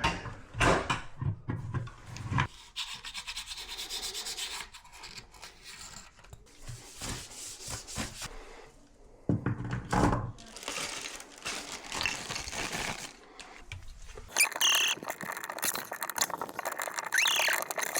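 Rubbing and scraping of sink drain and faucet parts being handled and fitted, with scattered knocks and clicks.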